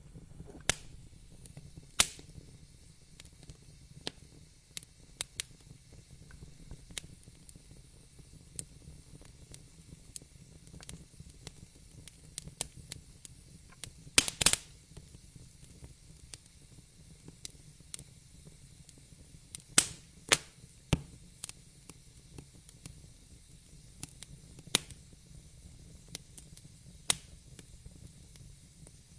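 Wood fire crackling: irregular sharp pops and snaps of burning logs over a soft low rumble and hiss, with a quick cluster of loud pops about halfway through.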